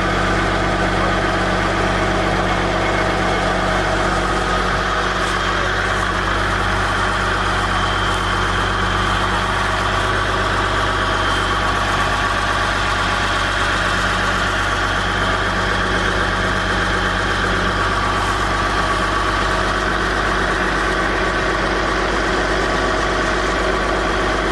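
A heavy vehicle's engine running steadily at constant speed, with a few faint clicks.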